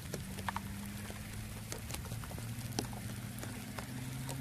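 Heavy rain falling, with many individual drops ticking sharply on a nearby surface over a steady hiss, and a low steady hum underneath.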